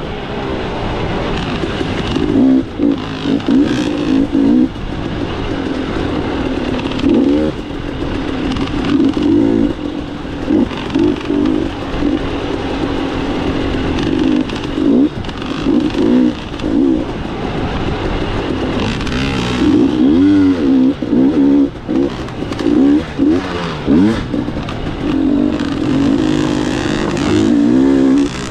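Dirt bike engine being ridden, its note rising and falling over and over with the throttle and gear changes.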